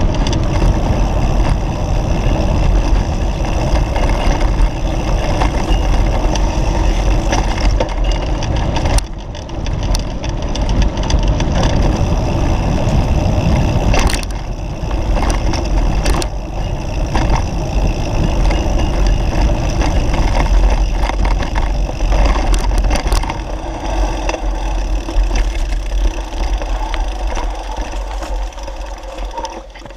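A motor vehicle's engine running steadily under way, with a heavy low rumble. It fades off at the very end.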